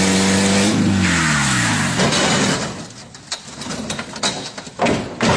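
A truck engine running hard, its pitch then falling over about a second as it winds down, followed by a stretch of scattered knocks and clatter.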